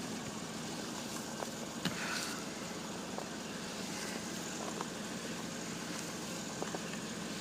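Car engine idling steadily after a cold start, with a few faint clicks.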